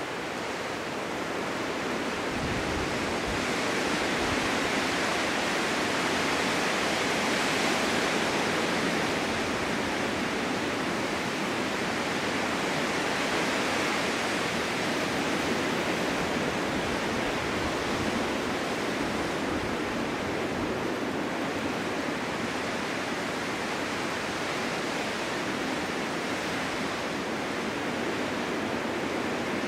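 Steady snowstorm wind blowing without a break, swelling into a stronger gust a few seconds in and then easing slightly.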